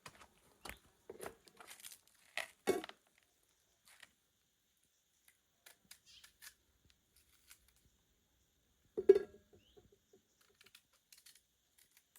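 Light clicks, taps and rustles of objects being handled, with one louder knock that rings briefly about nine seconds in.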